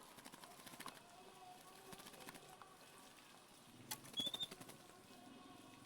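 Faint scattered clicks and taps, with one short high chirp about four seconds in from a caged oriental magpie-robin.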